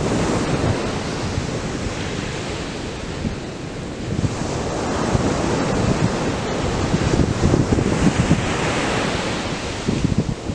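Atlantic surf breaking and washing up the beach in a continuous rush, swelling as waves break about four seconds in and again near the end. Wind buffets the microphone with a low rumble.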